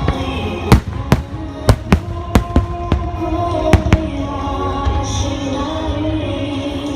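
Aerial fireworks bursting in quick succession, about ten sharp bangs in the first four seconds and then thinning out, over music with long held notes.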